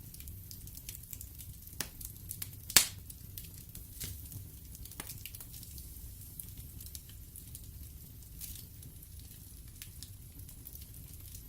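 Wood fire in a fireplace crackling, with scattered sharp pops and one loud crack about three seconds in over a low, steady rumble.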